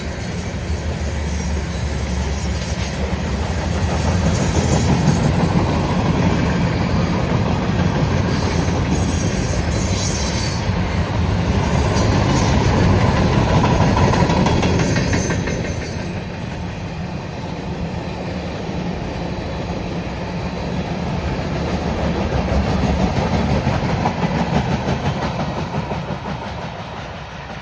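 Freight train's cars rolling past at speed, a continuous rumble of steel wheels on the rails that swells and dips and falls off near the end.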